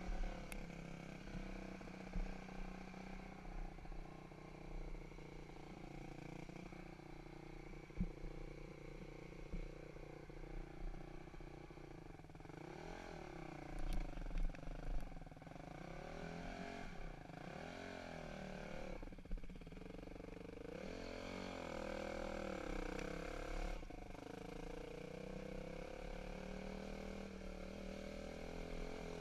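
Dirt bike engine revving up and down, its pitch rising and falling several times through the middle, with a few sharp knocks. Near the end it settles into a steadier, slightly louder run.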